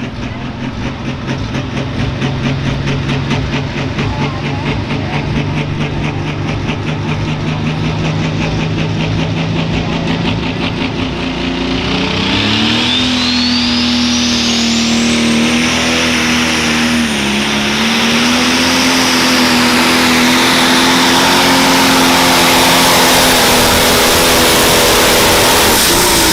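Turbocharged pro stock pulling tractor's diesel engine, first throbbing at a steady low speed. About twelve seconds in, the revs climb and hold high for the pull while the turbocharger's whistle rises to a high, steady whine, with a short dip in revs partway through. The sound grows louder as the run goes on, and right at the end the revs begin to drop.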